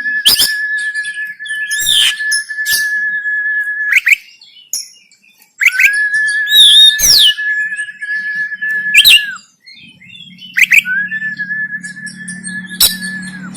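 Oriental magpie-robin (kacer) singing: three long, level whistled notes, each held for three to four seconds, broken up by sharp clicks and quick chirps. A low steady hum comes in about ten seconds in.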